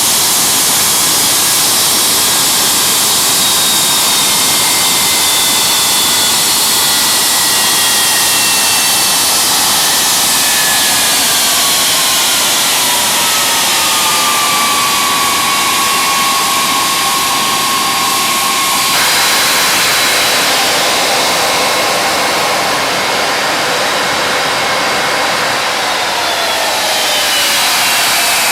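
Ilyushin Il-86's NK-86 turbofan engines running on the ground, a loud steady rush with whining tones that slide down in pitch as the engines spool down, then hold. The sound changes abruptly about two-thirds of the way in, and another whine falls away near the end.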